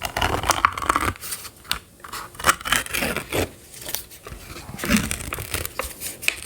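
Close-miked crinkling, tearing and scraping as a packet of shredded coconut is handled and opened, in many irregular short crackles.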